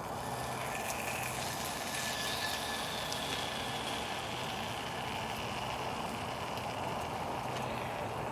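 Wood campfire burning: a steady hiss with small scattered crackles.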